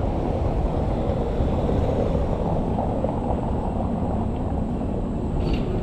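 Steady low rumbling outdoor background noise, with a brief faint higher chirp about five and a half seconds in.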